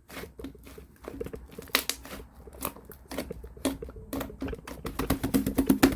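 Two-layer slime being squeezed and pressed by hand, giving sticky clicks and small pops, with a quick run of clicks near the end.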